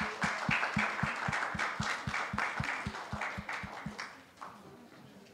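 Congregation applauding, with an even beat of low thumps about four to five a second running under the clapping. The applause dies away about four seconds in.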